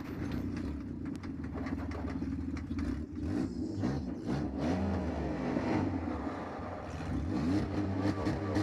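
Minivan engine running and revving up and down as it is driven in a demolition derby, heard from inside the car, with scattered knocks and clatter.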